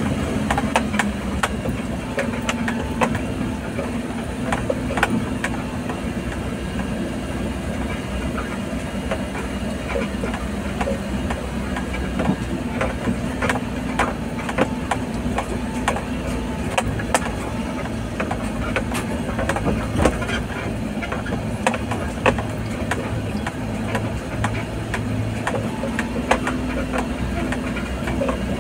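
Vehicle engine running under load up a steep, rough dirt track, heard from inside the cab, with frequent sharp knocks and rattles of the body jolting over the ruts.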